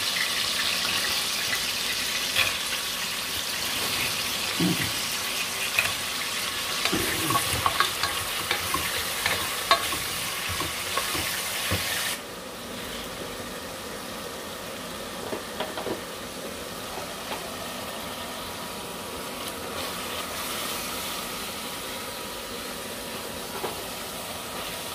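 Sliced onions frying in oil in a stainless steel pot, sizzling steadily while a wooden spoon stirs and knocks against the pot. About halfway through, the sizzle suddenly drops to a quieter level, and the stirring and frying go on more softly.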